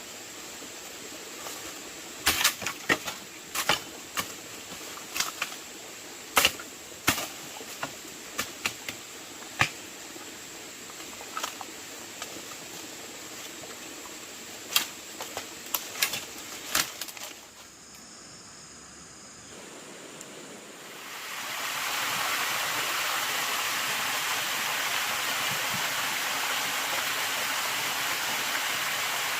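Irregular sharp knocks and clicks, about a dozen over fifteen seconds. After a short lull, a steady rushing noise sets in about three quarters of the way through and stays loud.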